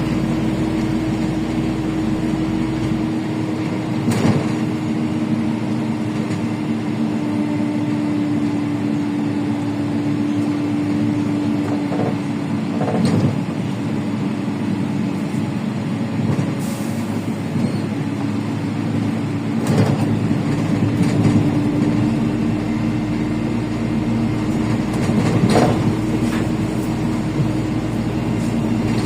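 Interior of a LiAZ 5292 city bus under way: the steady drone of its Yuchai engine and drivetrain with road noise, broken by several sharp knocks and rattles from the body.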